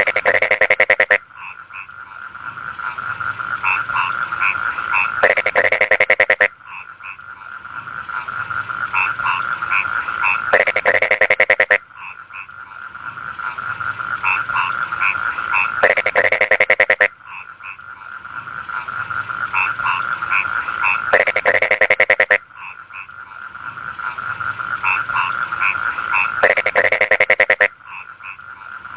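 Chorus of rice-field frogs croaking, with a loud burst of rapid calls about every five seconds over a steady high-pitched drone.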